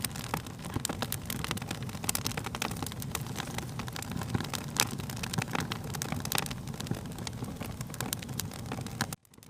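Wood fire crackling: dense, irregular pops and snaps over a low steady rumble of burning. Near the end the sound cuts out suddenly for a moment, then comes back quieter.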